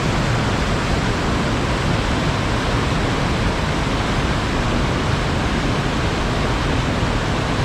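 Waterfall rushing: a steady, loud roar of falling water with no change in level.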